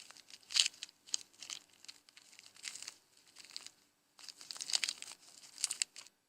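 A giraffe feeding, tearing and chewing leaves: irregular crackling and rustling with a short break about four seconds in.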